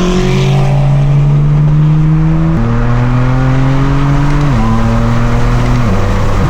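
Straight-piped BMW exhaust droning loudly as the car is driven. The engine note holds or climbs slowly, then steps up in pitch once and drops twice with gear changes.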